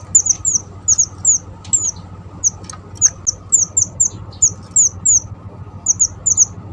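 Small mantenan bird calling constantly: a fast run of short, very high chirps that each slide downward, often two to four in quick succession, over a steady low hum.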